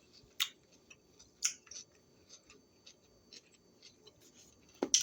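A person chewing crunchy food: a few short, sharp crunches spaced irregularly, about half a second in and again around one and a half seconds, with faint mouth clicks between.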